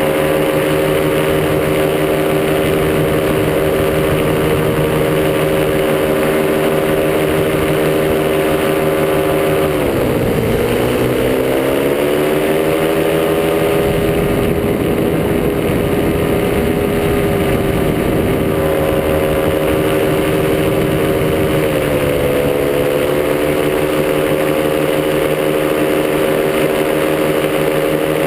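Top80 paramotor's single-cylinder two-stroke engine running steadily in flight. The throttle is eased off about ten seconds in, its pitch falling, then brought slowly back up. A smaller brief dip in revs comes near the end.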